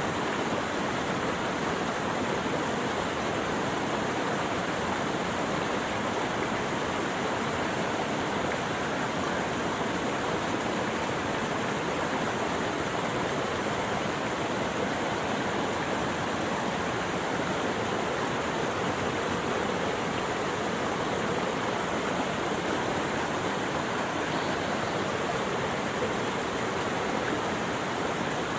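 Rushing water, a steady, unbroken hiss with no change in level.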